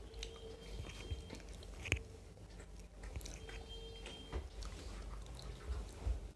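Close chewing and mouth sounds of people eating rice and chutney by hand, with soft scattered clicks of fingers against a small steel bowl and one sharp clink about two seconds in.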